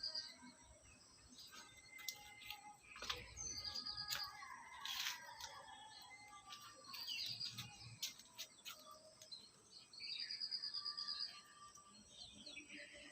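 Parrot chirping: short, rapid, high trills repeated four times, about three to four seconds apart, with scattered faint clicks between them.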